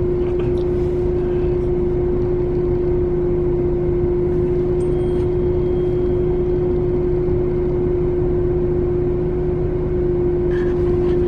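Steady vehicle engine hum with a constant low drone, unchanging throughout.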